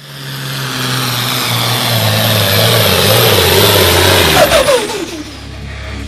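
Farm pulling tractor's diesel engine running hard at high revs, growing louder, then throttling back about four and a half seconds in, its pitch falling away to a lower, steadier sound.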